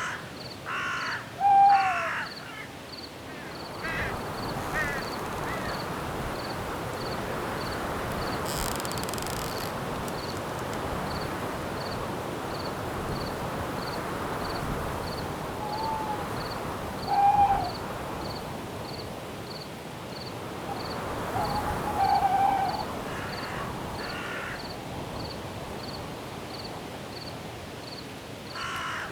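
Night forest ambience: a cricket chirping steadily about twice a second over a wind-like hiss in the trees, with a few short bird calls near the start and again in the middle and latter part.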